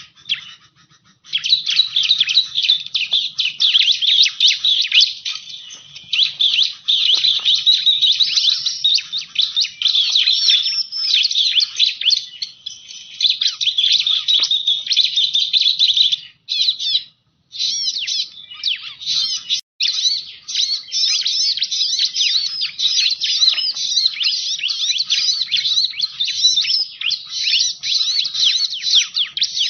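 Bar-winged prinia (ciblek) calling, a dense stream of rapid high chirps, broken off briefly just after the start and again about halfway through. It is a lure-call recording of the kind played to draw the bird in.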